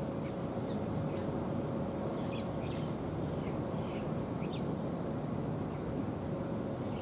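Small birds chirping: repeated short, high chirps scattered through, over a steady low rumble with a faint humming tone.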